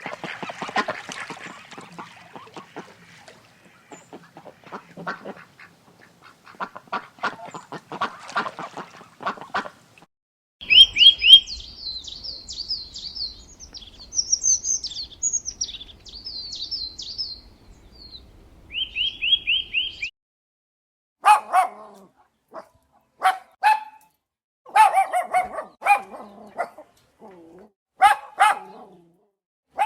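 A run of animal calls: first a crackly, clicking stretch, then high, rapid bird chirps repeated in short runs, then short honking calls with pauses between them.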